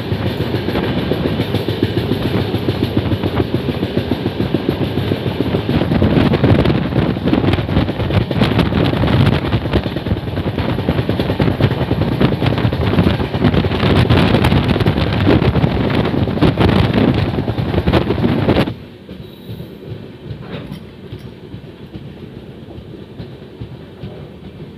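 Sikkim Mahananda Express passenger train running at speed, heard loud from the coach, with a rushing rumble and rapid knocks of the wheels over rail joints. About three-quarters of the way through it drops sharply to a much quieter rumble with occasional knocks.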